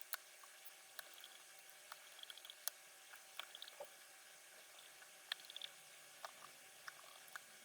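Light, irregular clicks and taps of small parts being handled on a PC-9821An desktop computer, over a faint steady hiss.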